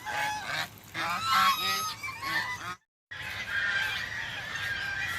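Birds calling: a run of short, separate calls, then a brief cut to silence just under three seconds in, after which many calls overlap in a continuous chorus.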